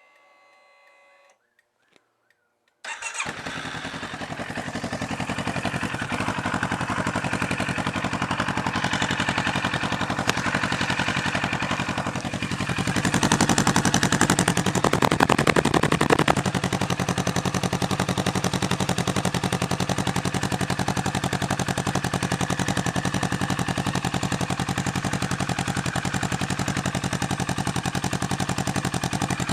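CFMOTO 650NK's parallel-twin engine starting about three seconds in and then idling, breathing through a link pipe that replaces the catalytic converter and into the stock muffler. The revs rise briefly about halfway through, then settle back to a steady idle.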